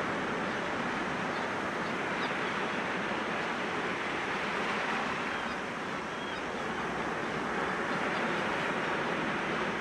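Sea waves washing steadily against rocks, a continuous surf wash that eases slightly about six seconds in and swells again.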